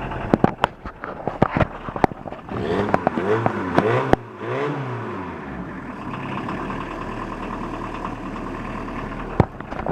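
A 1982 VW Rabbit pickup's diesel engine idling, still cold after a cold start. It is revved up and let fall back twice, about three to five seconds in, then settles back to a steady idle. Several sharp clicks come in the first two seconds.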